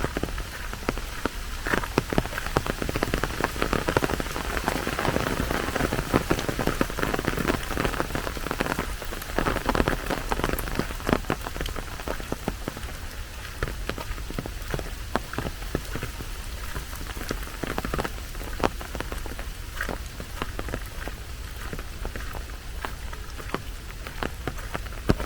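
Heavy rain falling steadily, a dense hiss full of sharp, close drop-hits, a little heavier in the first half.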